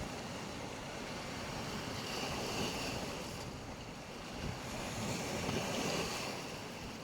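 Sea waves washing onto a beach, a steady surf wash that swells twice, about two seconds in and again around five seconds.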